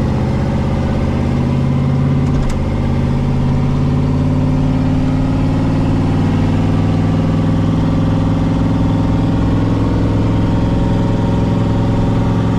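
Car engine running at a steady speed, an even drone, with a single short click about two and a half seconds in.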